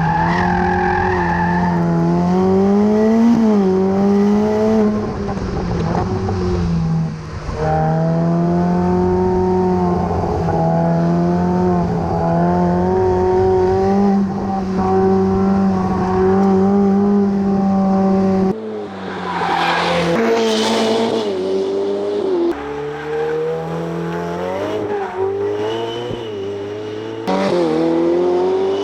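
A supercar's engine and exhaust under hard driving, the revs climbing and dropping again and again through gear changes. About two-thirds of the way through, the sound changes abruptly to a thinner tone, with a brief rush of noise soon after.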